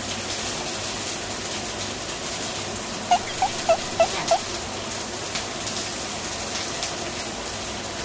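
Meatballs sizzling steadily in a frying pan, with a quick run of five short high chirps about three seconds in.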